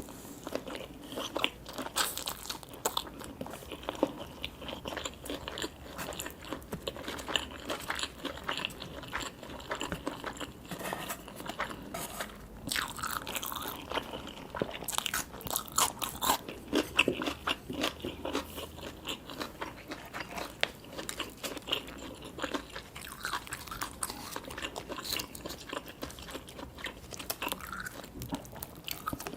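Close-miked eating: crunchy bites and wet chewing of sushi and fried seafood, a dense run of irregular crackles and clicks.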